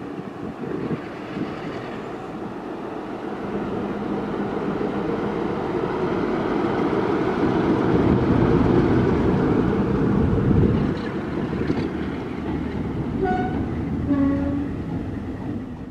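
Heritage railway train running, a rumbling noise that grows louder to a peak about halfway through, then a locomotive sounding two short toots near the end.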